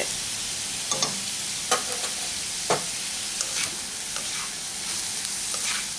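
Potato sticks frying in oil in a wok with a steady sizzle, while a spatula stirs them and scrapes and knocks against the pan a few times in the first half.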